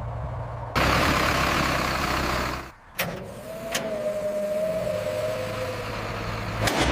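A cut-together run of mechanical noise: a steady low hum, then a louder even rushing noise, a short drop-out, a couple of clicks and a held mid-pitched tone.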